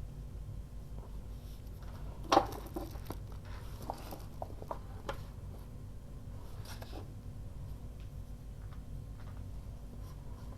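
Craft materials handled on a work table: a sharp rustle about two seconds in, followed by scattered light taps and rustles, over a steady low hum.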